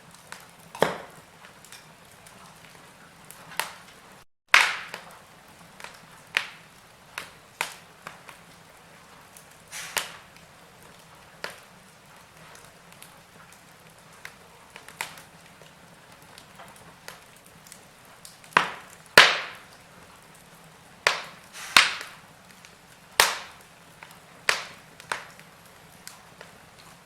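Wood fire in a fireplace crackling: irregular sharp pops and cracks over a soft hiss, coming more often and louder a little past the middle.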